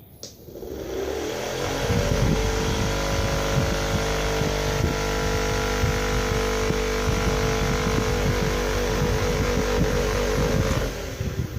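Small electric motor of a homemade bamboo table fan switched on with a click and spinning up over a second or so. It then runs steadily with a hum and irregular rattling ticks, and winds down near the end.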